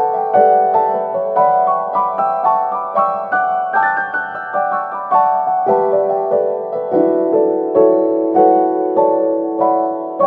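Background piano music: a quick run of struck notes over held lower notes, at a steady loud level.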